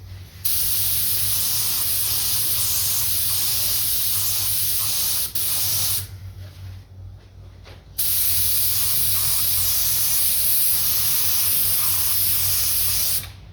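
Spraying white base-coat paint over the primed dent repair on a guitar neck: a steady spray hiss in two long passes. The first runs about five seconds, and the second starts after a two-second pause.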